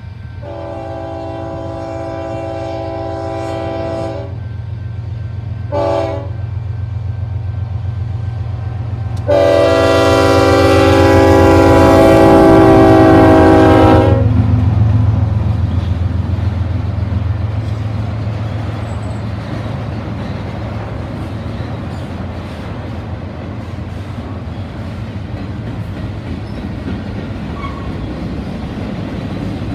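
Union Pacific diesel freight locomotive's air horn sounding a long blast, a short blast, then a longer and louder blast, over the low, steady running of the engine. After the horn stops, the freight cars roll past with a steady rumble and a rapid clicking of wheels over the rail joints.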